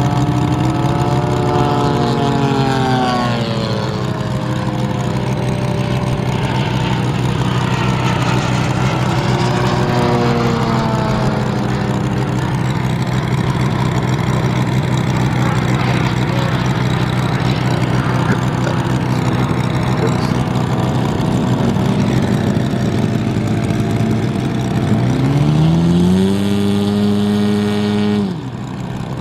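Moki radial engine of a large RC Corsair model running, its pitch sweeping down and up several times and rising sharply near the end before the sound cuts off abruptly.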